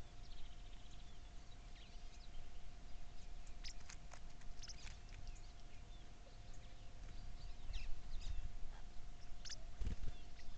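Birds chirping in many short, scattered high calls and ticks, over a low rumble and a faint steady hum.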